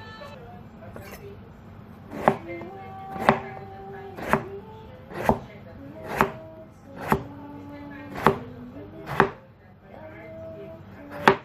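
Knife chopping on a cutting board, slow single cuts about once a second, with a short pause before a last, louder chop near the end.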